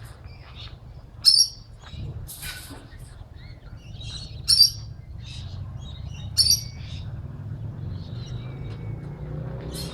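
Aviary birds calling: three short, loud, shrill calls spaced two to three seconds apart, with softer chirps between them.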